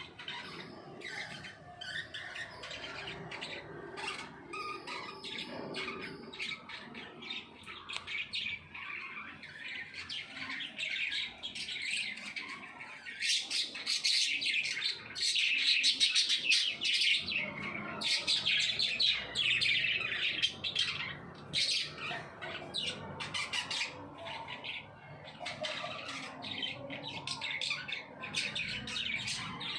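A flock of small pet parrots kept as love birds chattering continuously with rapid high chirps and squawks. The chatter is densest and loudest through the middle.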